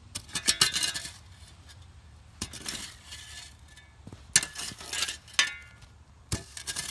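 A shovel scraping and tossing gravelly dirt, in several short bursts of clinking and scraping with a sharper knock near the end.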